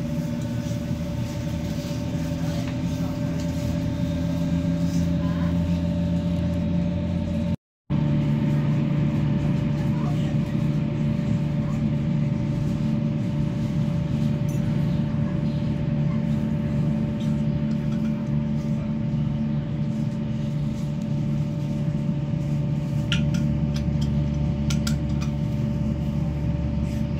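Inside a moving electric train: steady rolling rumble with a constant humming whine from the traction equipment. The sound cuts out completely for a moment about eight seconds in.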